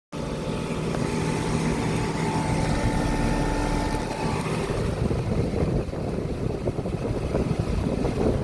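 Carrier Sentry heat pump outdoor unit running: a steady compressor hum and the condenser fan blowing air. Several steady tones are in the hum until about four seconds in, after which it turns rougher and more like wind.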